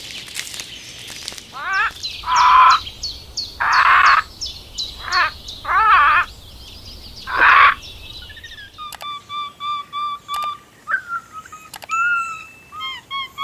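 Farmyard animal calls: five loud, wavering calls at roughly one-second intervals with fast high chirping over them, then a steady run of short, quieter repeated chirps.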